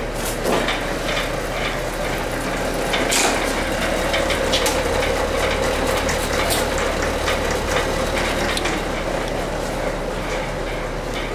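Irregular crackling and sizzling from the hot, fire-scorched cab steel and paint of a pickup truck after the fire has been doused with water, over a faint steady hum.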